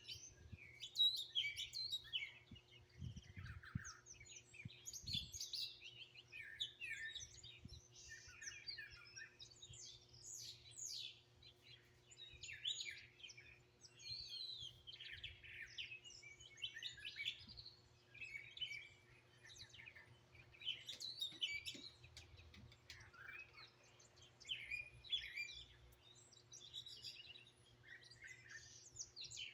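Several songbirds chirping and singing over one another in a continuous chorus of short calls and trills, with a faint steady low hum underneath.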